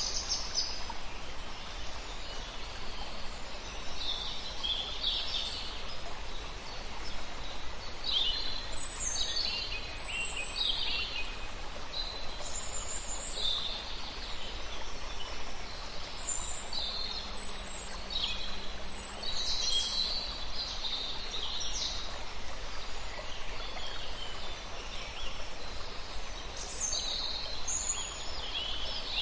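Several wild birds calling and singing in quick, overlapping chirps and trills over a steady background hiss.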